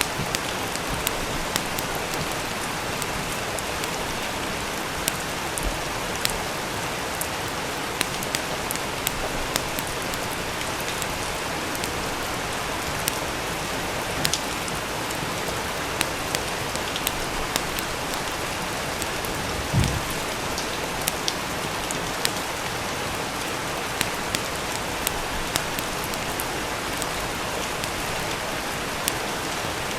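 Steady rain falling, with scattered sharp crackles and pops from a wood fire, and one low thump a little under two-thirds of the way through.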